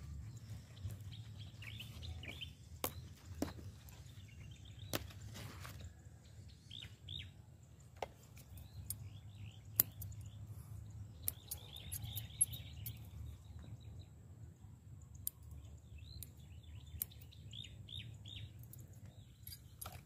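Small birds chirping in short clusters several times, over a steady low rumble, with scattered sharp clicks.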